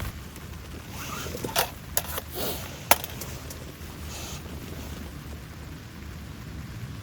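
A few light knocks and clacks of objects being handled, with one sharp clink about three seconds in, over a faint steady background hiss.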